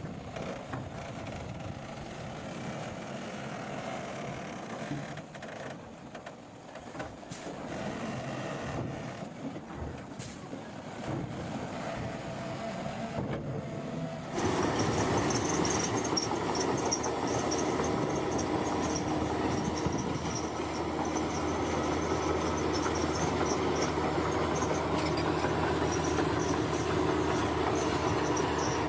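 Bulldozer working: engine running with the clatter and squeak of its crawler tracks. About halfway through the sound jumps abruptly louder and closer, with a steady high chirping over it.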